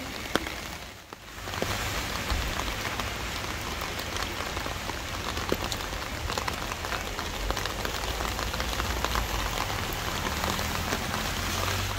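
Rain falling on a water-filled basin and wet pavement: a steady hiss full of small drop ticks, with a brief dip about a second in.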